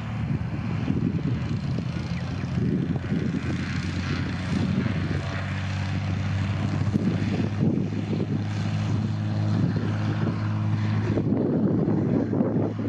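Turbocharged Cessna TR182 Turbo Skylane's piston engine and propeller running at takeoff power, a steady, slowly swelling engine tone, with wind buffeting the microphone.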